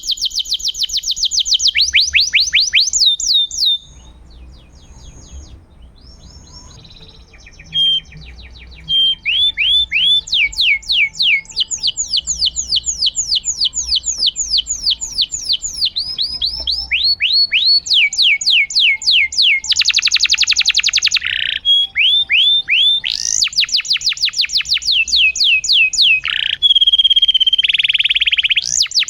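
Domestic canary singing in full song: long runs of rapid repeated sweeping notes and buzzy trills, with a brief quieter lull about four seconds in.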